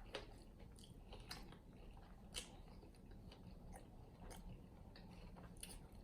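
Faint chewing and wet mouth clicks from eating chicken wings in a sticky garlic sauce: scattered soft smacks, one a little louder about two and a half seconds in.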